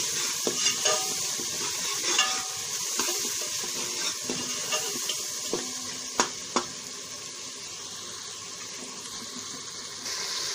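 Tomato-onion masala with spices sizzling in hot oil in a metal pot while a metal spoon stirs and scrapes it, with two sharp clinks of the spoon on the pot about six seconds in. After that the stirring stops and only the steady sizzle goes on.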